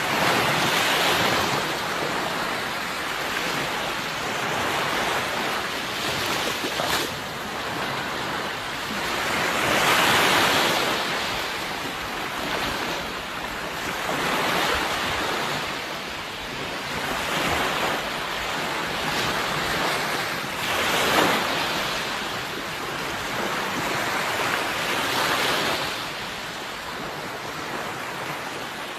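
Sea waves breaking and washing ashore, the surf swelling and ebbing every few seconds, with some wind noise.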